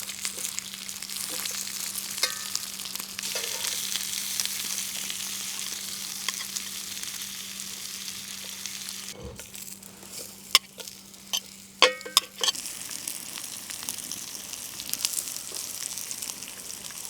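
Food sizzling and crackling in an oiled pan over a strong flame, a steady hiss with scattered pops. A few sharp clicks come about two thirds of the way in.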